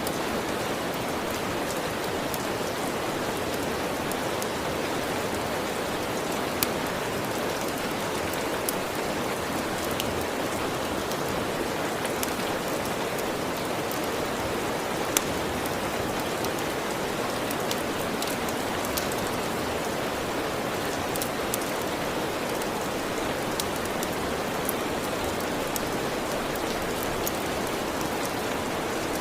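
Steady rain falling, with scattered sharp pops from a crackling fireplace fire.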